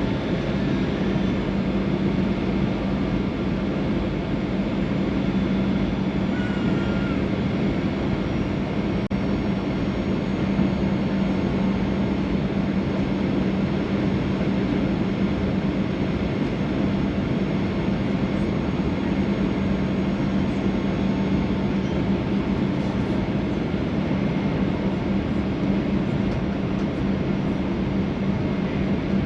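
Boeing 737-800 cabin noise: a steady drone of the CFM56 engines and airflow with a constant low hum, unchanging throughout.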